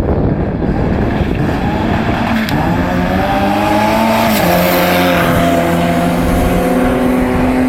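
Saab-engined Vauxhall Corsa accelerating hard down a drag strip. The engine note rises, drops sharply at a gear change about four and a half seconds in, then climbs again.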